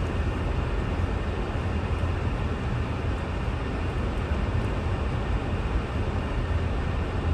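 A car driving: a steady low rumble of engine and road noise with an even hiss above it, no changes or distinct events.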